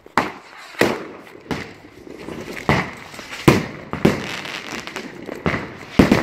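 Fireworks and firecrackers exploding: about eight sharp, irregular bangs, each with a short echoing tail.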